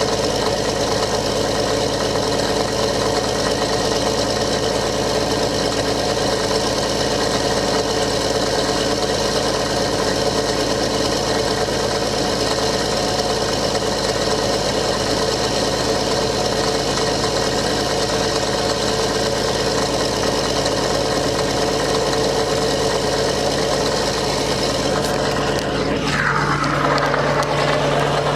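Old diesel engine running steadily after a cold start. Near the end its speed falls quickly and it settles to a lower, steady running note.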